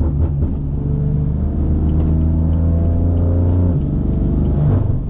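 Loud exhaust of a BMW F80 M3's S55 twin-turbo inline-six, run catless through 3.5-inch downpipes, a VRSF single mid-pipe and a valved axle-back with the valves open. The engine pitch climbs steadily under acceleration, then falls away nearly four seconds in.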